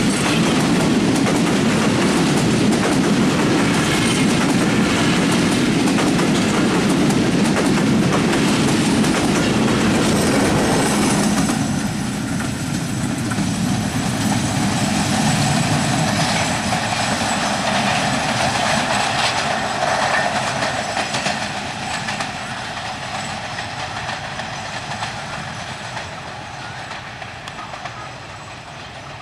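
Benapole Commuter passenger train of Bangladesh Railway running past close by, its coaches' wheels clattering over the rail joints with a loud rumble. About eleven seconds in the sound drops, and it then fades steadily as the train draws away.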